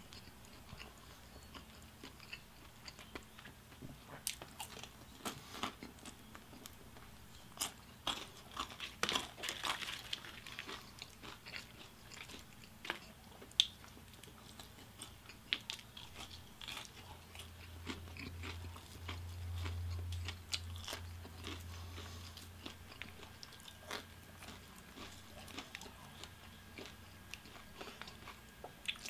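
Close-up eating sounds: crunching bites and chewing of KFC Extra Crispy fried chicken, the crisp breading crackling sharply, thickest about a third of the way through. A low hum swells for a few seconds past the middle.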